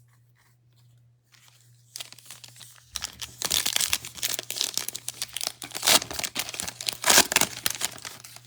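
A trading card pack's wrapper being torn open and crinkled by hand. It starts about two seconds in and gets louder about a second later, over a faint steady low hum.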